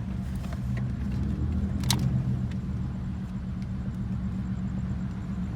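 Truck engine running with a steady low rumble, with one sharp click about two seconds in.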